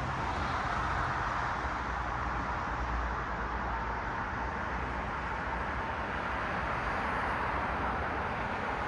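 Road traffic noise from cars passing on a city street: a steady wash of tyre and engine noise with a low rumble underneath, without any single standout event.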